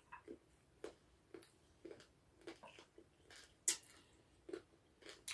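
Faint, irregular wet clicks and smacks of mouths chewing spicy chicken feet close to the microphone.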